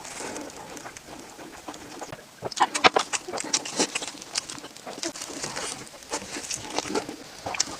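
Close-up eating sounds: chewing, with crisp crunches and wet mouth clicks, and a run of louder crunches a few seconds in.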